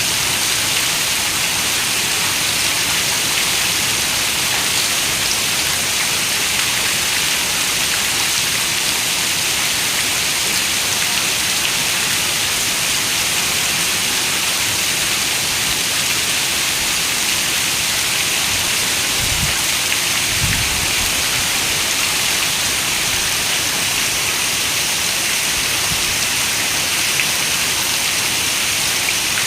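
Heavy rain falling steadily on a window, an even hiss, with a brief low rumble about two-thirds of the way in.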